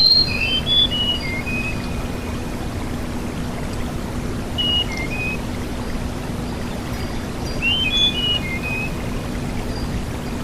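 Tledekan gunung songbird singing three short phrases of clear whistled notes that jump between pitches: one at the start, one about halfway, one near the end. A steady rushing noise with a low hum runs underneath.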